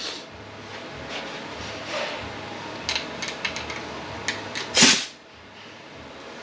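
A few light clicks of parts being handled, then a short blast of compressed air from an air nozzle about five seconds in: an air check applying a clutch in a ZF 9HP48 (948TE) automatic transmission.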